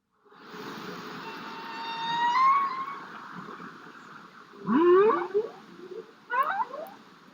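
Humpback whale song picked up by a deep-water hydrophone: a long tonal cry rising slightly in pitch from about one to three seconds in, then two clusters of short upswept calls near five and six and a half seconds, over a steady underwater hiss.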